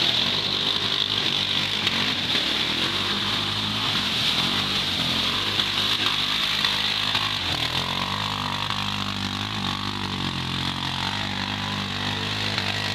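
ATV engine running, its note uneven at first and settling to a steady idle about halfway through, with a broad hiss over it.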